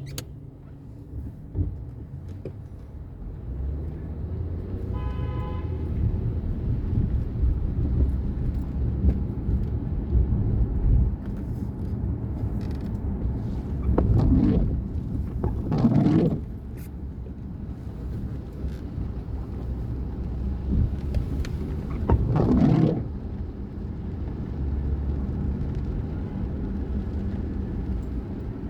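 Road vehicle noise: a steady low engine and tyre rumble, a short horn toot about five seconds in, and three louder whooshes of vehicles passing near the middle and after about 22 seconds.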